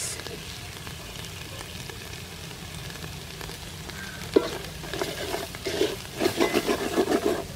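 Chilli-and-spice paste sizzling steadily in oil in a metal pot. About four seconds in, a wooden ladle knocks once, then stirs and scrapes the paste in quick strokes.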